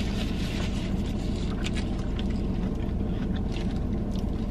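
Steady low hum of a car's engine idling, heard from inside the cabin, with faint scattered clicks of chewing and the foil burger wrapper.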